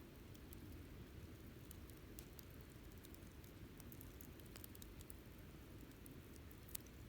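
Wood campfire burning quietly: faint, irregular crackles over a low, steady rumble, with one sharper pop near the end.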